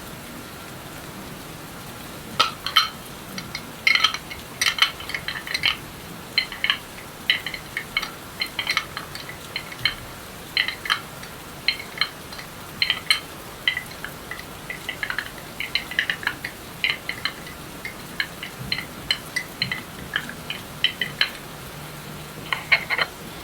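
Steady rain sound in the background, with quick irregular crisp clicks and crackles starting about two seconds in and running in clusters to near the end; these are close-up ASMR trigger sounds.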